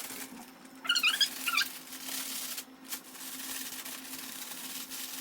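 Plastic zip-top bag rustling and crinkling as a raw chicken drumstick is worked in Shake 'n Bake coating mix, with a few high squeaks about a second in.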